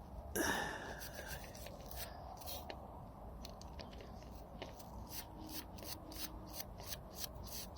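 A small bristle brush scrubbing dull, corroded metal terminals in a motorcycle fuse box, in short scratchy strokes that come faster and stronger near the end, bringing the contacts back to a shine. About half a second in there is a brief, louder hiss.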